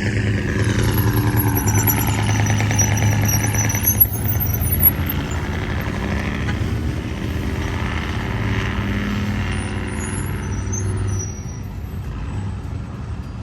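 Road traffic: vehicle engines running as they pass, with a pitch that falls over the first few seconds. Two brief sharp knocks come about four and five seconds in.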